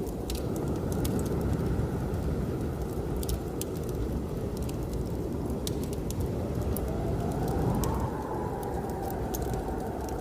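Blizzard wind blowing with a deep steady rumble and a thin whistling howl that rises in pitch about three-quarters of the way through and then sinks again, under the scattered pops and crackles of a fireplace fire.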